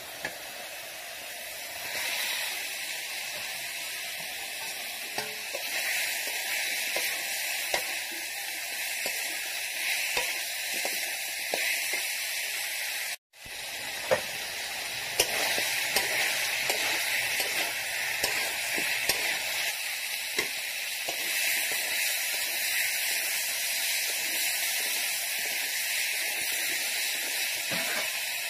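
Chicken and gourd pieces sizzling in hot oil and masala in a wok, with scattered clicks and scrapes of a metal spatula stirring them. The sound cuts out briefly about halfway through.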